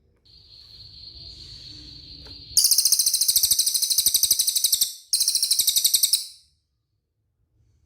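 A cililin songbird singing. It gives a thin, steady high whistle for about two seconds, then two loud, very rapid high trills, the second one shorter, and falls silent about six and a half seconds in.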